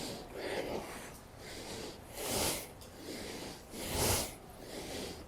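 A man breathing hard through a set of pull-ups: a run of short, forceful exhales and inhales about once a second, the sharpest blows about two and four seconds in.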